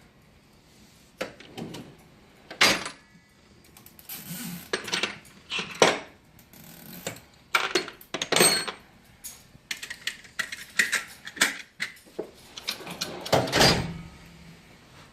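Metal tools and parts clinking and clattering in an irregular string of sharp knocks, the loudest a few seconds apart.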